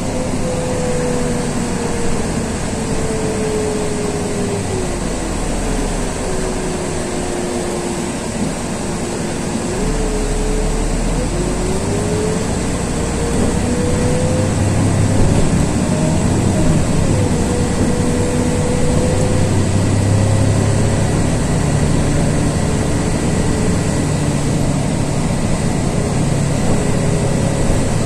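Inside a LiAZ 6213.22 articulated diesel city bus under way: engine and drivetrain running with a whine that slides down and up as the bus changes speed, over a low rumble and road noise.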